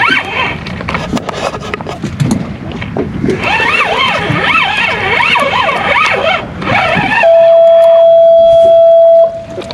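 A high, wavering warble, followed about seven seconds in by a loud, steady beep-like tone that holds for about two seconds and cuts off abruptly.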